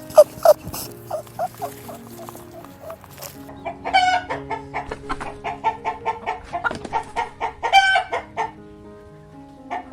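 Chickens clucking in quick, short calls, with two louder calls about four and eight seconds in, over background music with held notes.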